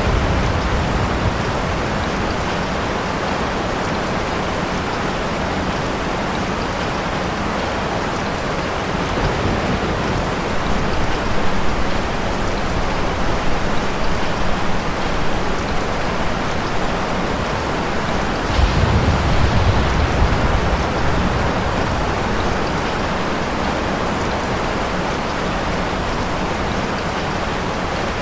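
Steady rain falling, with low rolling thunder rumbles, one fading out just as it begins and another about two-thirds of the way through.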